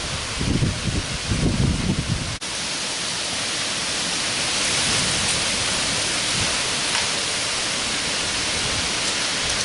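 Heavy rain falling steadily in a summer thunderstorm, a constant hiss. Wind buffets the microphone in gusts for the first two seconds, and the sound drops out for an instant about two and a half seconds in.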